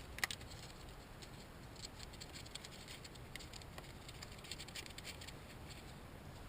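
Faint, irregular light clicks and taps of hand work on an engine's small parts, with one sharper click about a quarter second in.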